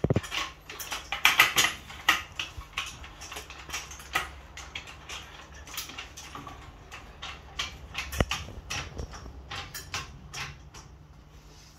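Scattered light clicks and clinks, irregular and several a second, with a louder knock about eight seconds in.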